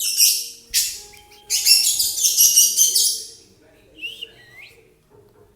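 A bird chirping in fast, high-pitched chattering bursts, the longest starting about a second and a half in and lasting nearly two seconds, followed by a few short sweeping calls.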